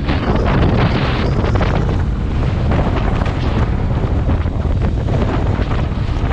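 Heavy wind buffeting the microphone: a loud, steady low rumble with gusty rustle on top.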